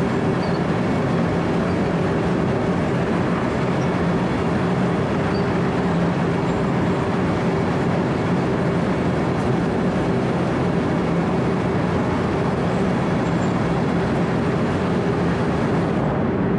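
Wirtgen 120CFi cold milling machine running steadily at a constant engine speed: a dense, even mechanical noise with a steady low hum.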